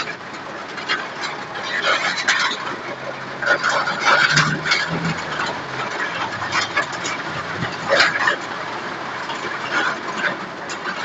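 Heavy rain beating on a car's windshield and roof, heard from inside the cabin: a steady hiss broken by irregular sharp taps.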